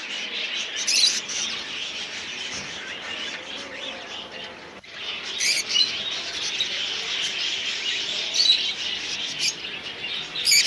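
A crowd of caged birds chirping at once, a dense, steady high chatter with a few louder, shrill calls standing out now and then.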